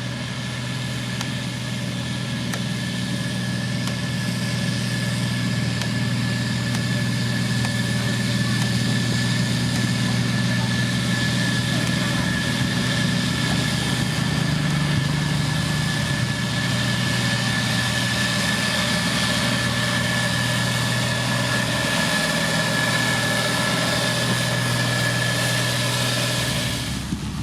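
Heavy road-construction machine's engine running steadily, with a steady high whine over the engine hum. The sound cuts off just before the end.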